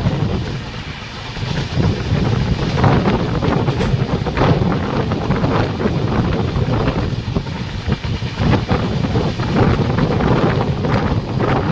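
Train running along the track: a heavy rumble of wheels on rails, with irregular clacks as the wheels cross rail joints, and wind on the microphone.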